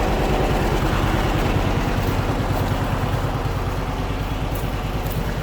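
John Deere 420W tractor's two-cylinder engine running steadily at idle with an even, pulsing beat.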